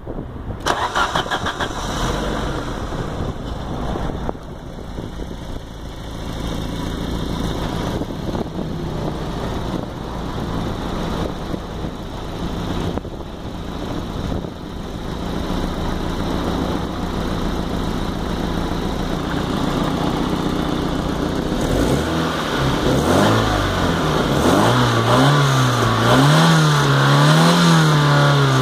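Alfa Romeo 75 Twin Spark 2.0-litre four-cylinder engine catching at once on the key and settling into a steady idle, a healthy quick start. From about two-thirds of the way in it is revved up and down repeatedly in quick blips.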